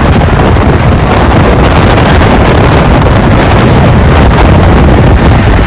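Strong wind buffeting the microphone: a loud, steady, rumbling rush of noise with no break.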